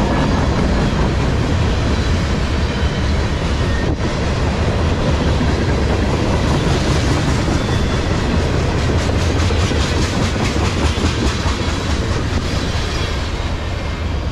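Freight train tank cars rolling past at close range: steel wheels clacking rhythmically over rail joints above a steady low rumble, with one sharp click about four seconds in. The sound eases slightly near the end as the last cars go by.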